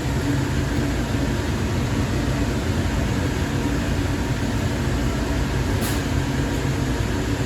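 Steady low rumble and running noise of a light rail train heard from inside the car while it travels between stations, with a brief click about six seconds in.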